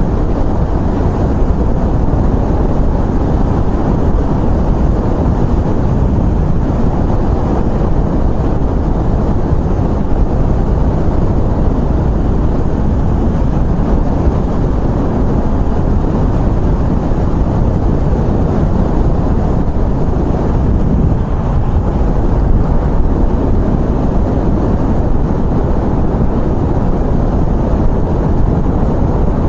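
Steady rush of air from the motorcycle's own speed, with the engine and road noise underneath, picked up by a microphone fitted inside a full-face helmet behind the padding.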